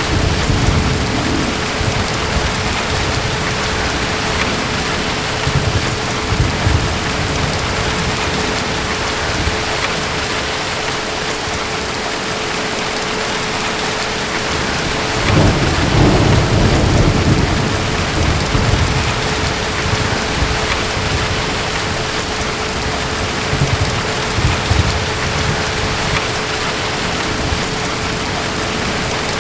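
Steady rain with distant thunder rumbling low, once at the start and again, loudest, about halfway through.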